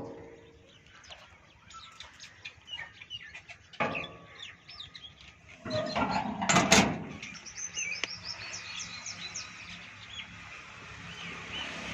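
Small birds chirping over and over, with a louder, noisy sound lasting about a second midway through.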